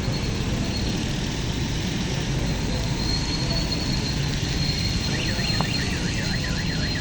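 Road traffic running steadily: engine rumble and road noise. About five seconds in, a warbling electronic alarm or horn tone starts and wavers up and down about four times a second.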